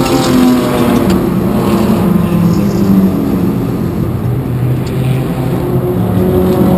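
Race car's engine running at low revs, heard from inside its stripped, gutted cabin, its pitch drifting up and down a little.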